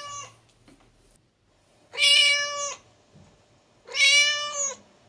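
Domestic cat meowing: the end of one meow right at the start, then two full meows, each just under a second long and about two seconds apart.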